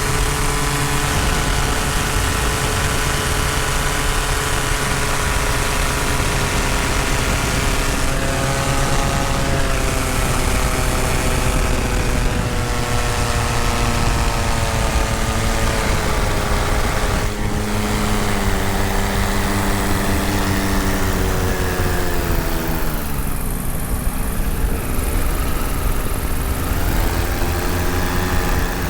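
Paramotor engine and propeller running steadily in flight, the engine's pitch drifting slowly lower, then dipping sharply about two-thirds of the way through as the throttle is eased and climbing back a few seconds later.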